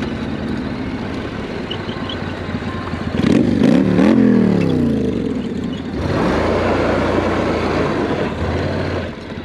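Motorcycle engine running while riding on dirt, revving up and back down about three to four seconds in. A rushing noise comes in about six seconds in and runs for about three seconds under the engine.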